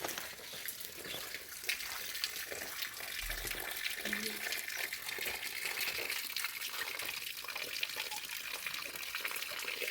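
Water running and splashing: a steady hiss with small crackles through it, a little fuller toward the end.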